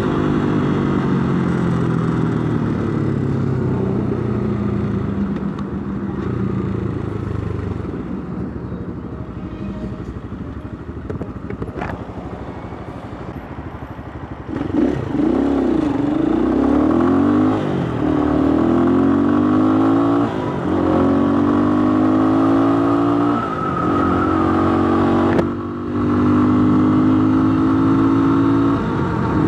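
Lifan X-Plore 200 enduro motorcycle's single-cylinder engine, heard from the rider's seat with wind noise. It runs at cruising speed, eases off and gets quieter for several seconds, then pulls hard from about halfway through, its pitch climbing and dropping back at each upshift, about four times.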